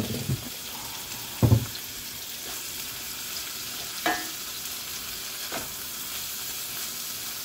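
Acorn squash, apples and green beans frying in olive oil in a skillet, a steady sizzle, with a loud knock about one and a half seconds in and two lighter clicks later.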